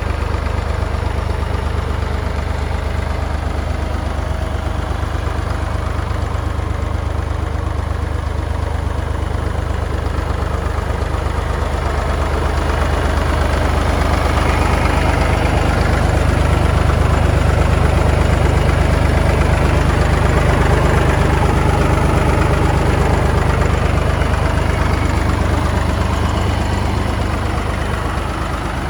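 Three-cylinder Perkins diesel engine of a Massey Ferguson 203 industrial tractor running at a steady idle, growing a little louder in the middle and easing back near the end.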